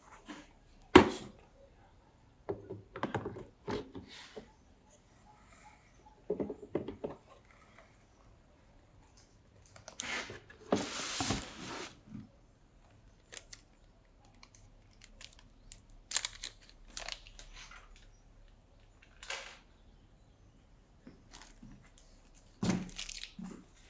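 Handling noises: scattered clicks and knocks, with a longer rustle about ten seconds in and a few more knocks near the end.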